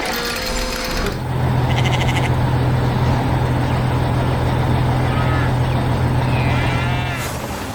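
Large farm machine's engine running steadily with a deep drone that sets in about a second in, with a few short animal calls over it in the second half.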